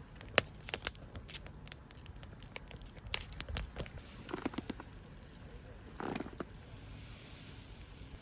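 Wood campfire crackling, with irregular sharp pops and snaps, the loudest about half a second in.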